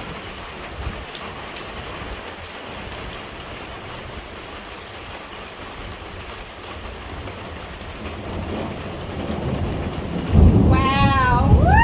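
Heavy rain pouring steadily. About eight seconds in a thunder rumble starts to build, breaking into a loud, deep peal near the end, with a wavering pitched cry over it.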